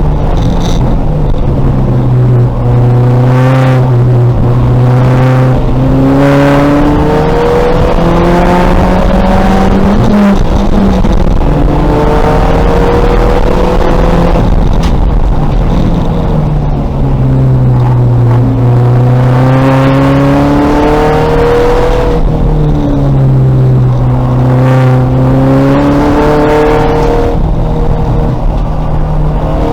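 A 2000 VW Golf race car's engine running hard under racing load. Its pitch climbs as it accelerates and drops back off several times, with engine and road noise throughout.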